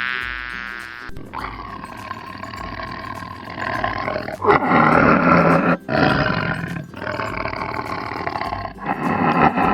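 A large animal roaring: a run of long, rough calls with brief breaks between them, loudest in the middle. Before them, in the first second, an insect's buzz dies away.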